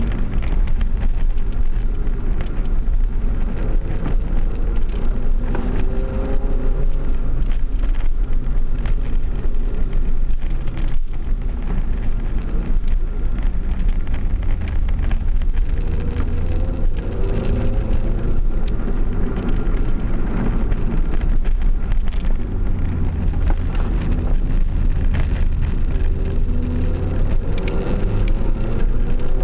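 Car engine and road rumble heard inside the cabin of a hard-driven car, the engine pitch climbing and dropping again several times as it accelerates and backs off.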